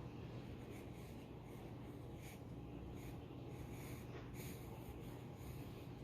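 Graphite pencil scratching on paper in short, irregular strokes, over a faint steady low hum.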